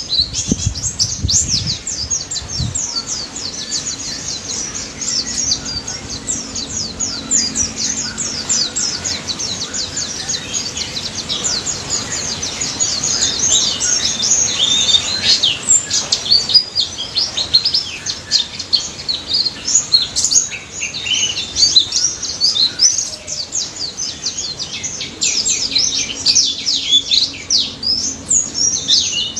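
Pleci (white-eye) songbirds singing vigorously: a dense, fast run of high chirps and short falling notes that carries on without pause.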